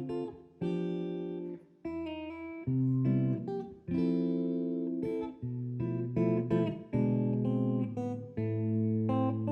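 Acoustic guitar playing the song's instrumental intro, chords struck about once a second and left to ring.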